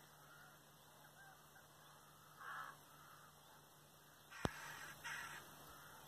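Three short, harsh bird calls, the last two close together, with a single sharp click at the start of the second call.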